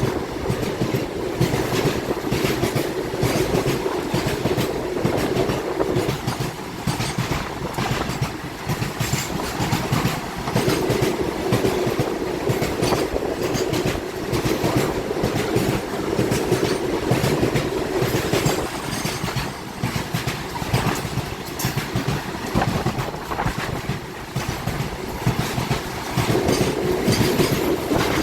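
Passenger train running, its wheels clattering steadily on the rails, heard from inside the coach.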